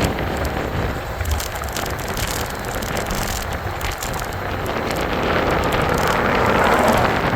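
Wind buffeting the microphone with tyre and road rumble while riding an e-bike, growing louder a couple of seconds before the end, with scattered small clicks and rattles.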